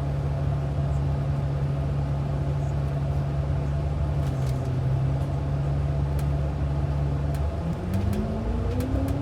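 Bus engine heard from inside the cabin, running steadily, then rising in pitch from about seven and a half seconds in as the bus accelerates.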